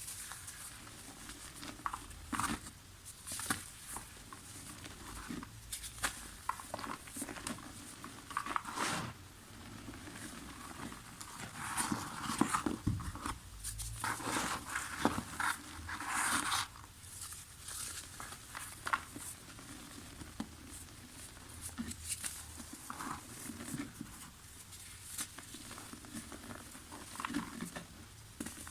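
Dry soft mud crumbling by hand, with irregular crunches and crackles and the patter of falling bits, a denser run of crunching about halfway through.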